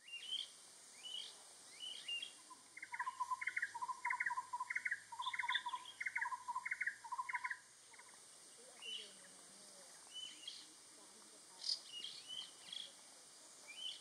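A bird calling a steady run of about eight repeated two-note whistled phrases for several seconds, starting a few seconds in. Short high chirps from other birds are scattered throughout.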